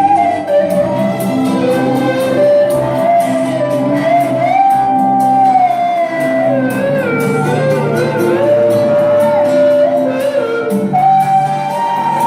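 Electric violin playing a solo melody with slides and vibrato over a backing track of sustained chords and a steady beat.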